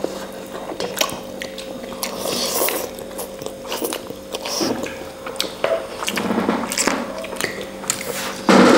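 Close-miked eating of noodle soup: chewing and biting, with many small wet clicks and smacks.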